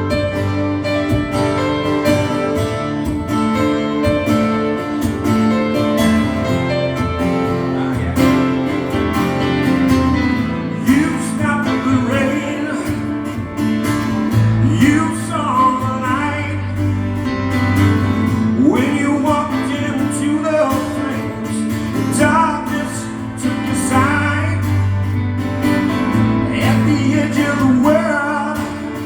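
Live acoustic guitar strumming steady chords in an instrumental passage. From about eleven seconds in, a higher melody line with sliding, wavering pitches plays over it.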